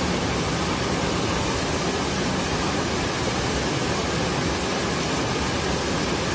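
Steady, even rushing noise at all pitches, with no change in level.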